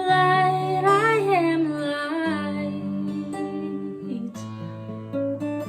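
A woman's voice singing a wordless, wavering phrase over acoustic guitar; about two seconds in the voice drops away and the guitar carries on with slow held chords.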